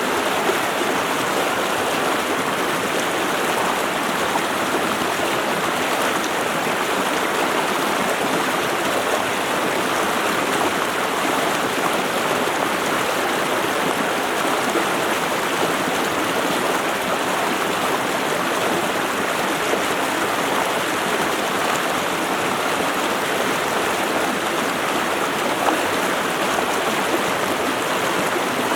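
Running water, a steady, even rush with no breaks or changes.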